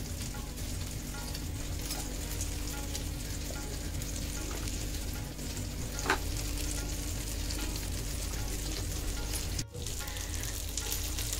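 Steady sizzling of buttered burger-bun halves toasting on a hot tawa, a flat griddle. There is one sharp click about six seconds in, and the sound drops out for a moment near the end.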